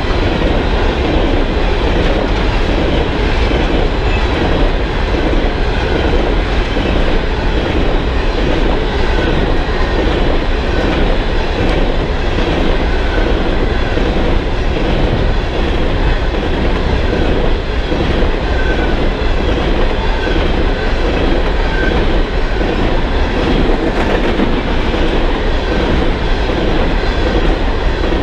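Coal hopper cars of a freight train rolling past close by: steel wheels on the rails clacking and rumbling steadily, with a few brief faint wheel squeals in the middle of the passage.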